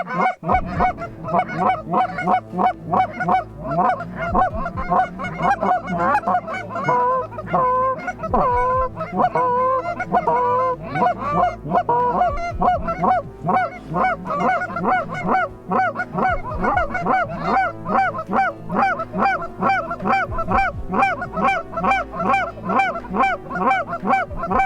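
Canada geese honking, many short honks in quick, overlapping succession without a break.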